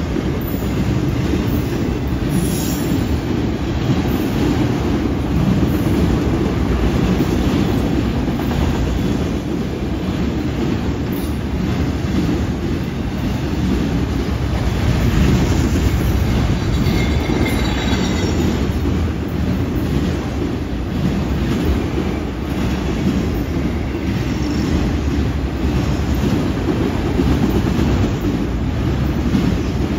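Freight train of autorack cars rolling past with a steady rumble of steel wheels on rail. A faint high wheel squeal comes in a little past the halfway point.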